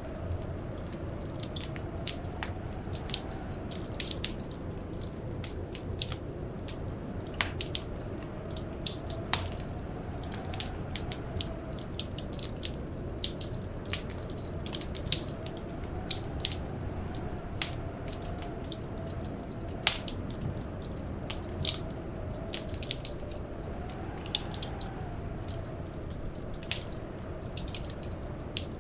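Wood fire crackling in a fireplace, with irregular sharp pops over a steady low rumble. A faint whistling wind wavers slowly in pitch behind it.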